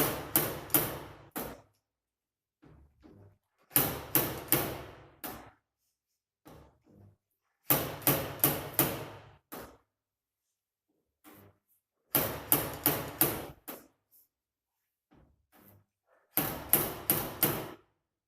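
Slide hammer of a Telwin spotter (stud-welding dent puller) being jerked back against its stop to pull a dent out of a car door panel: five rapid clusters of four or five sharp metallic knocks, about every four seconds.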